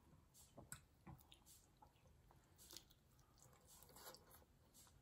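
Faint chewing of soft steamed momo dumplings eaten by hand, with soft mouth clicks scattered throughout.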